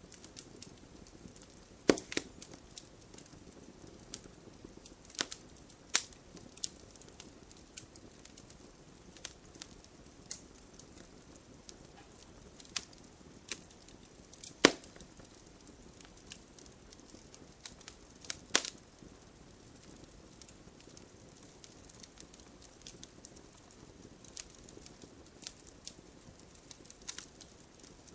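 Wood fire crackling in a fireplace: a soft steady hiss with sharp pops and snaps at irregular intervals, a few of them much louder than the rest.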